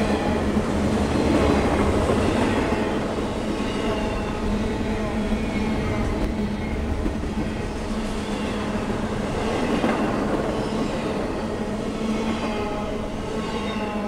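Norfolk Southern double-stack intermodal train passing at speed: the steady rush and rumble of its well cars' wheels on the rail, with a steady low hum underneath. The noise swells briefly near the start and again about two-thirds of the way through.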